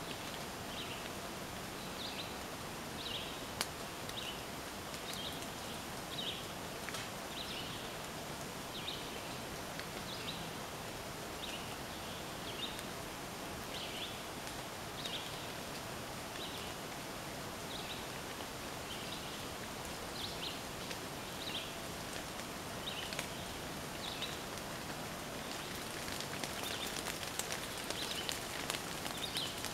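Woodland ambience: a bird giving short high chirps, about one or two a second, over a steady hiss. There are a few faint ticks, and it grows busier and a little louder near the end.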